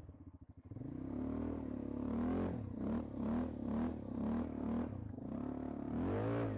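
ATV (quad bike) engine chugging at a low idle, then running with the revs rising and falling again and again as the throttle is worked over rough ground, with a stronger rise near the end.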